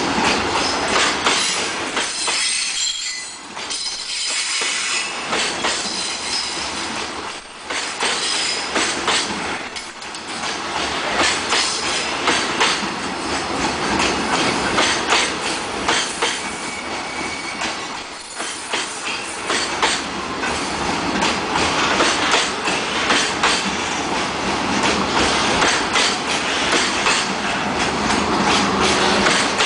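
Freight train of container wagons rolling past, wheels clattering over rail joints in a steady stream of clicks, with a brief high wheel squeal about two or three seconds in.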